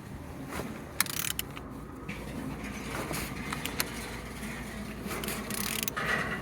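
Z13DTH 1.3 diesel engine being turned over by hand on the crank: mechanical scraping and clicks, with a sharp click about a second in. It turns freely with compression on every cylinder.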